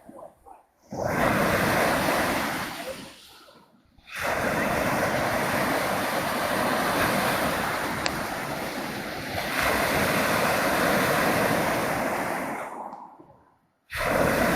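Black Sea surf washing ashore, heard as a steady rush with wind on the microphone. The sound swells and falls away to near silence a few times: around a second in, about four seconds in, and just before the end.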